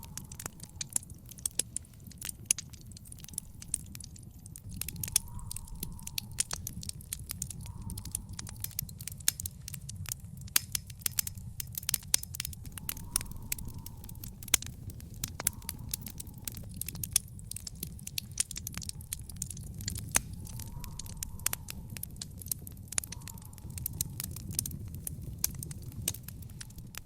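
Wood fire in an outdoor fire pit crackling: dense, irregular sharp pops and snaps over a steady low rumble of the burning fire.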